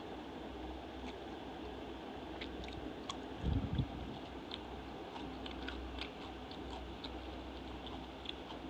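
Close-miked chewing of crisp raw cucumber, with many small crunchy clicks scattered throughout, and a dull bump about three and a half seconds in.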